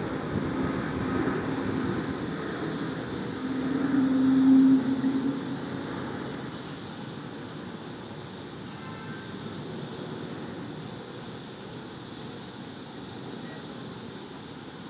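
An engine passing by over a steady urban hum: it swells to its loudest, with a steady low tone, about four to five seconds in, then fades away into the background.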